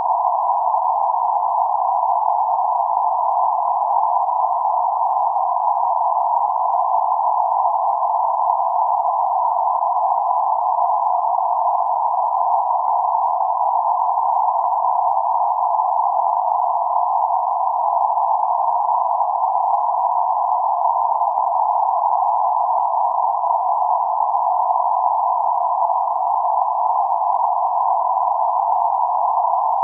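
Steady band-limited noise centred around 848 Hz: an even, unchanging hiss confined to a narrow band of middle pitch, with no low rumble or high hiss.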